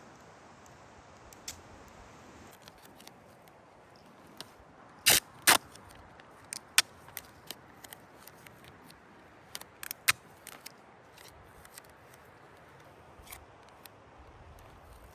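Scattered sharp clicks and snaps over a faint steady hiss, the two loudest close together about five seconds in.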